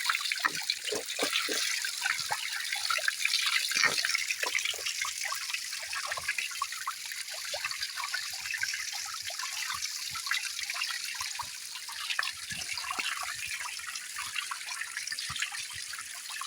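Shallow stream water trickling steadily, with scattered splashes and drips that come thickest in the first few seconds.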